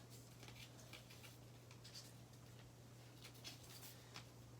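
Faint, scattered rustles and soft taps of a sheet of paper being folded and creased by hand, over a low steady hum.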